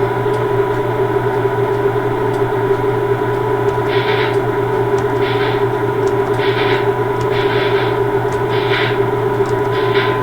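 Steady electrical hum with several held tones from standing railway equipment, with short hissing puffs about once a second in the second half.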